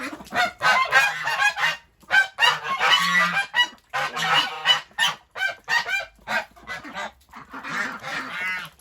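Domestic geese honking loudly and repeatedly, a rapid series of short calls with a longer call near the end. This is the constant complaining honking of geese that have had their mud taken away.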